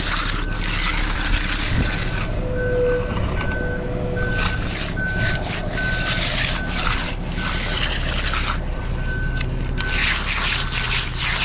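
A heavy vehicle's backup alarm beeping at an even pace over its diesel engine running, the beeps pausing for a couple of seconds past the middle.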